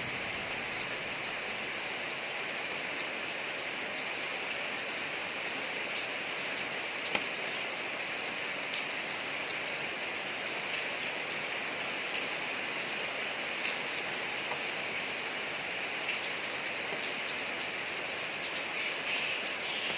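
Steady rain falling on a street, with scattered single drops ticking louder now and then.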